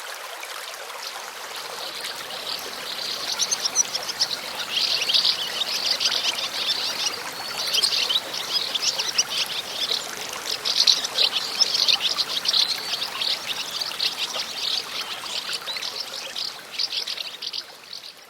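Running water, like a small stream or trickle, with a few bird chirps.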